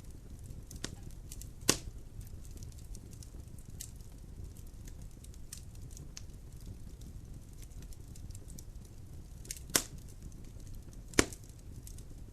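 Logs burning in a fireplace: a steady low rumble of flame under constant small crackles, with three sharp loud pops of burning wood, one about two seconds in and two close together near the end.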